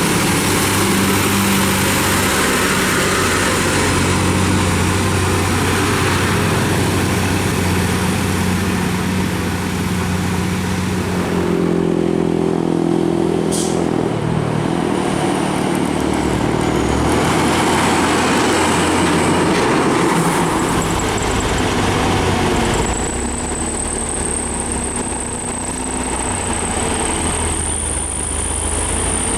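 Heavy diesel trucks driving past with their engines running steadily. One truck's engine note gives way to another's about a third of the way through, and a high thin whistle rides on top near the end.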